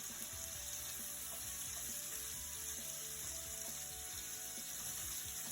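Ground beef frying in a pan, a steady sizzle, with background music playing.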